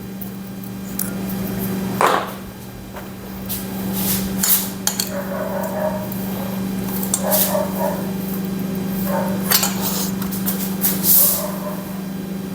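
Metal tools and engine parts clinking and knocking during engine assembly, with a sharp knock about two seconds in and scattered clicks after it, over a steady low hum.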